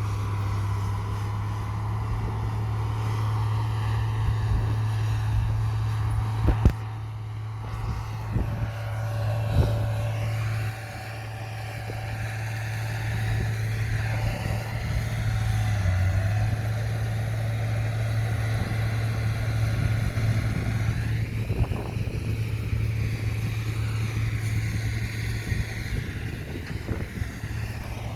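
Komatsu bulldozer's diesel engine running steadily under load as it works the soil, with a few sharp knocks about seven and ten seconds in.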